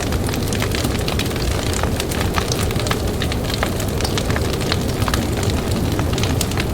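Campfire crackling, with frequent sharp irregular pops and snaps over a steady low rumble of blizzard wind.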